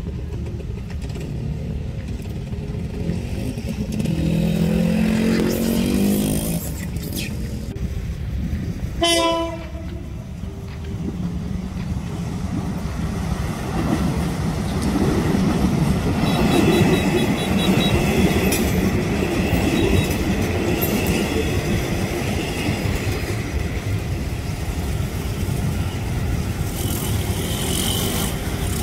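A train sounding its horn a few seconds in, then passing over a level crossing with a louder, steady low rumble from about halfway through.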